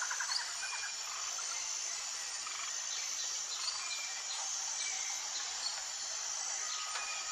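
Outdoor ambience: insects trilling steadily at a high pitch, with scattered short bird chirps over a steady hiss.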